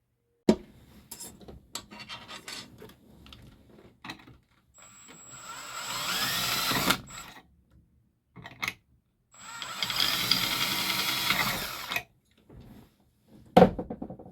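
Electric drill drilling out old rivets in two runs of a few seconds each, its motor whine shifting in speed as it bites. Small handling clicks come before and between the runs, and a sharp knock sounds near the end.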